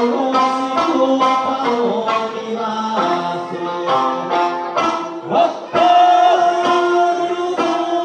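Okinawan eisa music: a sanshin plucking a folk melody with singing over it, and regular drum strikes.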